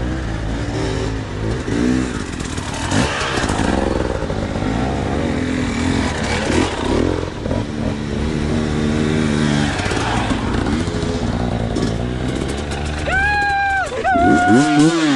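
Dirt bike engines running and revving up and down. Near the end, a loud held high-pitched tone sounds twice.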